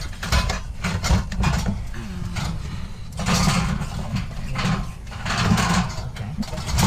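Scrap metal being handled and shifted into a van: irregular knocks and clatter, with two longer scraping stretches, one in the middle and one near the end.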